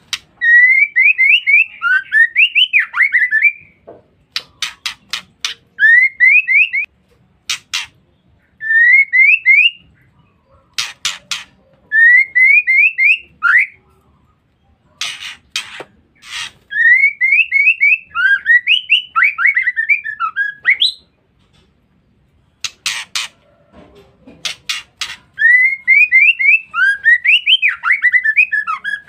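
Female white-rumped shama (murai batu) giving its ngeriwik call: runs of quick rising chirps, each a second to a few seconds long, alternating with short clusters of harsh, rasping notes, with brief pauses between phrases.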